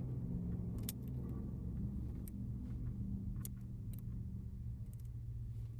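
Small metal clicks and scrapes of a straightened paper clip being worked inside a car's ignition lock cylinder, trying to hook out a broken key, over a steady low hum.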